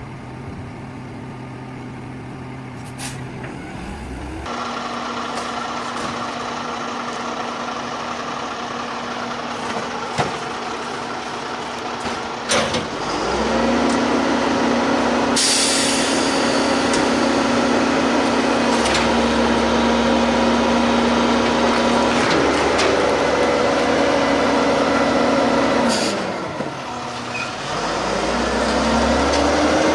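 Garbage truck engine running and revving up in steps: it is held at a steady higher speed through the middle stretch, drops near the end, then climbs again. Short air-brake hisses cut in a few times.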